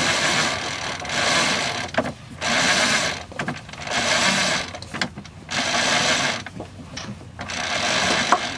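A sailboat's mainsheet is being hauled in through ratcheting deck hardware as the main is trimmed. It comes in about six clattering pulls, roughly one every second and a half.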